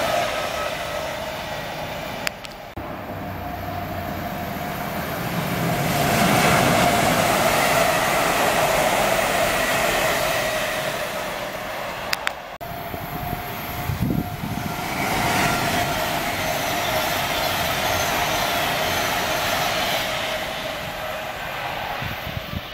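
Express train running through the station at speed: a steady rush of wheel and rail noise with a constant whine. The sound breaks off sharply twice, near the start and about halfway through, and then carries on.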